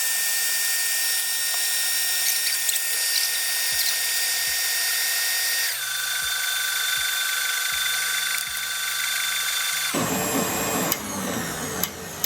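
Stand mixer's motor and whisk running steadily, whipping egg whites and sugar toward stiff peaks. Its whine drops to a lower pitch about halfway through, and the sound turns noisier and rougher near the end.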